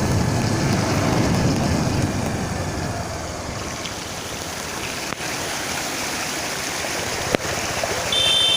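Floodwater rushing across a highway, heard as a continuous rushing noise with wind on the microphone. The noise is louder for the first couple of seconds. Two sharp clicks come in the second half, and a steady high tone starts near the end.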